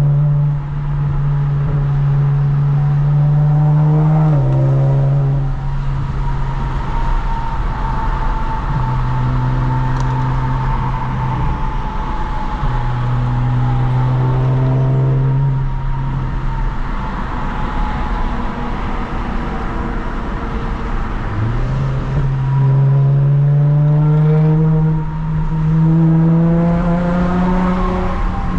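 Lexus IS350's V6 engine, breathing through a midpipe without secondary cats and a muffler-delete axle-back, while the car is driven. The engine note climbs under acceleration, drops suddenly at a gear change, holds steady while cruising, and climbs again near the end.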